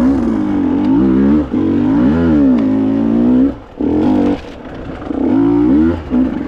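Two-stroke enduro motorcycle engine revving up and down with the throttle. It drops off sharply about three and a half seconds in, runs lower for a moment, then picks up again.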